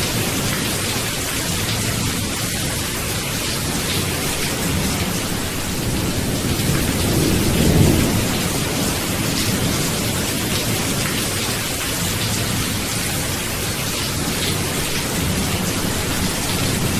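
Steady rain with low rolling thunder; one louder rumble swells and fades about halfway through.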